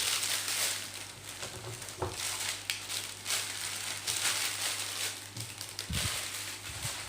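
Packaging being handled and crinkled: irregular rustling and crackling with scattered sharp clicks.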